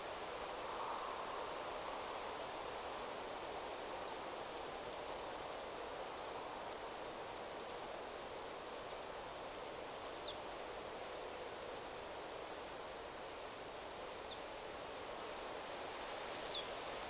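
Steady wind rustling through forest trees, with scattered brief high bird chirps; three of the calls are short falling notes, near the middle and close to the end.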